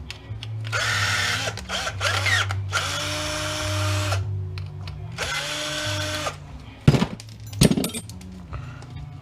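Power drill running in four short runs as screws are backed out, its motor whine climbing as each run starts and dropping as it stops. Two sharp knocks come near the end.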